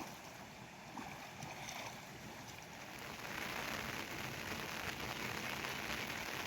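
Rain falling steadily, growing heavier about three seconds in.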